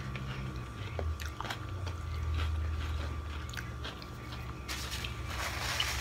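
A mouthful of tuna sandwich being chewed, with scattered short wet mouth clicks, over a low steady hum. Near the end comes a brief rustle of a paper napkin.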